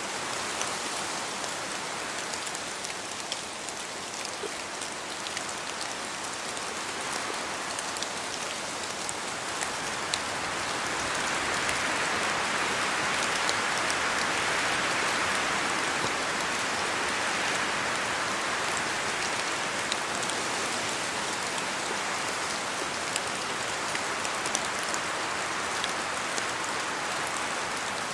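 Steady rain in a forest, with drops falling from the trees as scattered sharp ticks over a continuous hiss. The hiss swells for several seconds around the middle, then eases back.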